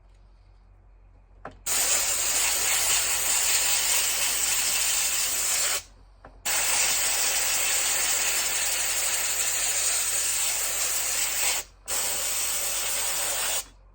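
Compressed air blowing through a chainsaw air filter from the inside out to clear the dirt, a loud hiss in three long blasts with brief pauses between them.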